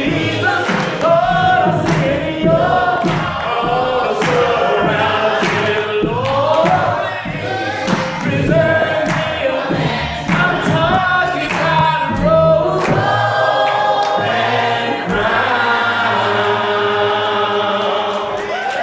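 Church choir singing a gospel song, ending on a long held note in the last few seconds.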